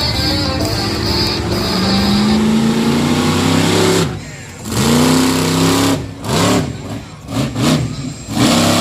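Monster truck engine revving: the pitch climbs steadily for about four seconds, drops off sharply, then comes a run of short, quick revs.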